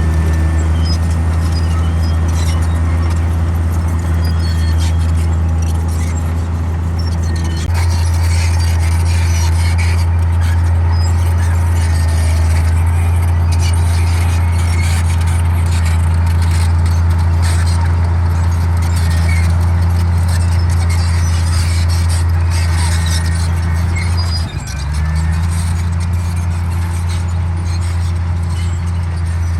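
Komatsu D58E bulldozer's diesel engine running steadily under load as it pushes soil, with high squeaks and clinks from the steel tracks. The engine note shifts about 8 seconds in and dips briefly near 25 seconds.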